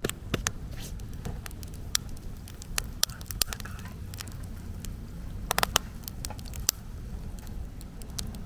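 Wood campfire crackling, with irregular sharp pops and snaps over a steady low rumble of the flames.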